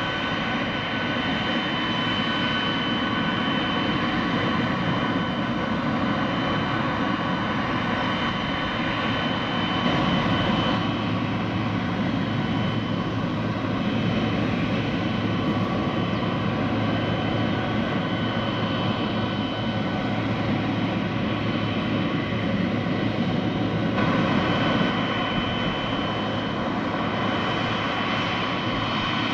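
Boeing 777-300ER's GE90 jet engines running steadily at taxi power, a continuous rumble with a high turbine whine over it.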